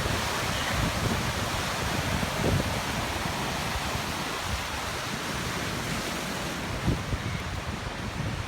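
Storm waves churning and breaking on a lake shore in a strong wind, with gusts rumbling on the microphone.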